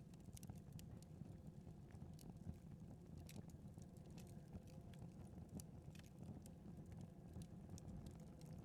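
Wood fire crackling faintly in a fireplace: irregular small pops and ticks over a low steady rumble.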